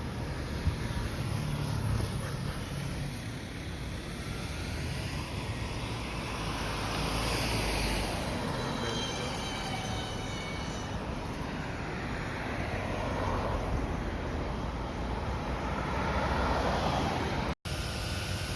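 Road traffic: a steady rumble of vehicles, with swells as some go by and a falling whine about halfway through.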